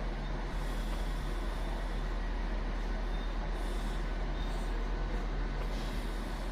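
Railway station platform ambience: a steady low rumble of trains, with no distinct passing or braking event.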